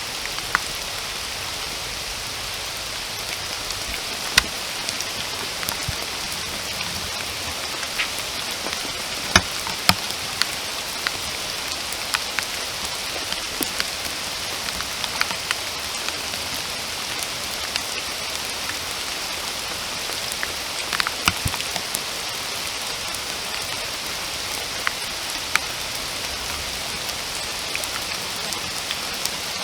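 Steady rain falling, an even hiss with scattered sharper drops hitting close by.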